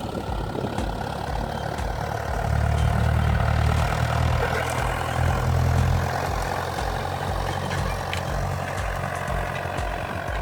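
Old Kubota tractor's diesel engine running steadily. It grows louder for a few seconds in the middle.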